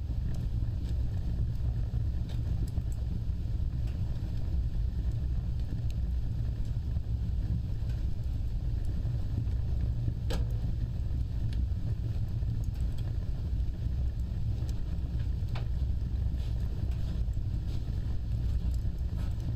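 An open fire burning with a steady low rumble of flames and scattered small crackles, with a sharper pop about halfway through and another a few seconds later.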